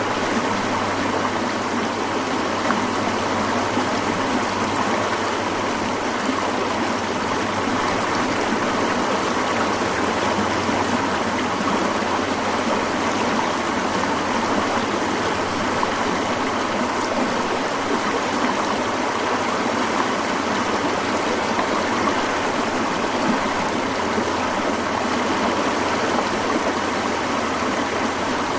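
A mountain stream flowing: a steady, even rush of water with no breaks.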